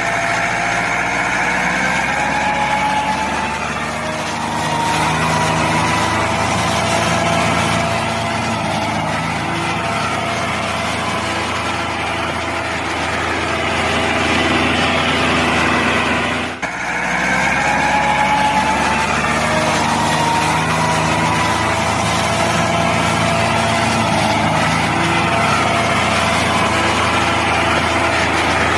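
Engine running steadily. About halfway through there is a brief dip, and then the same stretch of sound starts over, as if a recording were looping.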